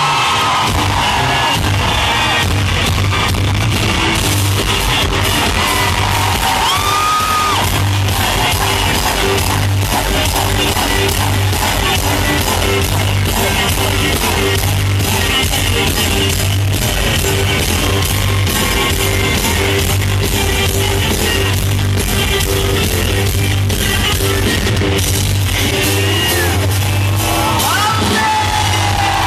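Loud live band music from a pop-rock concert, heard from among the audience: a steady bass beat under guitar and band, with voices yelling and singing along over it.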